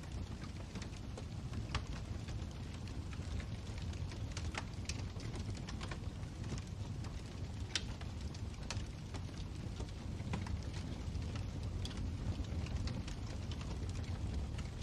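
Wood fire burning in a fireplace: a steady low roar of flames with irregular sharp crackles and pops of the burning wood, a few of them louder.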